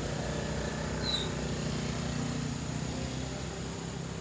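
Motorcycle engine running steadily, a low even hum with no rise or fall in pitch. A short high chirp sounds about a second in.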